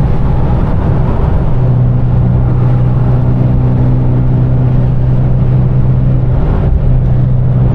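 Car engine droning steadily at a constant cruise, heard from inside a car with the windows partly down, with wind noise over it.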